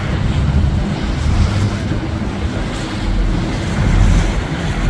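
Speedboat under way: engine running with water washing past and wind buffeting the microphone.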